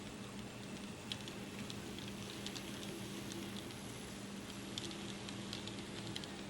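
HO-scale model train running on its track: a steady low hum with irregular light clicks and ticks.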